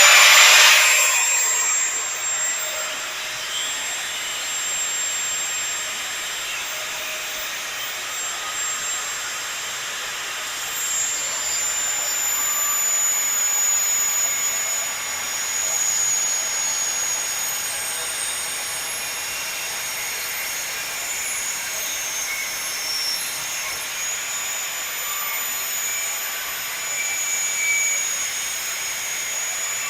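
Angle grinder with a cutting disc cutting stainless steel exhaust tubing. It gives a high, steady whine over a grinding hiss, and the pitch sags at times as the disc bites into the metal.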